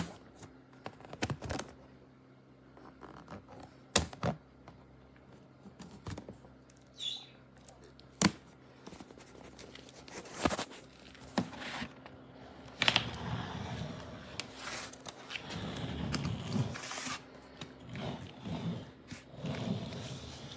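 Scattered knocks and clicks of objects being handled, the sharpest about 4 and 8 seconds in, then a longer stretch of rustling and shuffling in the second half.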